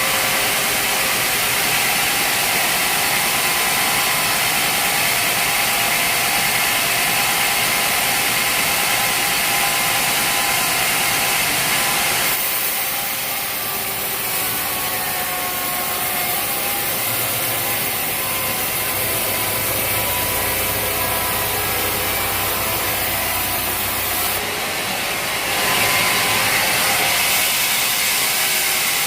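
Sawmill running, its saw blade cutting through a log with a steady, loud hissing rasp over an engine. The cut changes character about twelve seconds in and again near the end.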